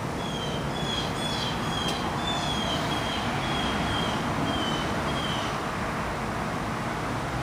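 Steady background noise like distant traffic, with a bird chirping over it: short high chirps about two a second that stop about three-quarters of the way through.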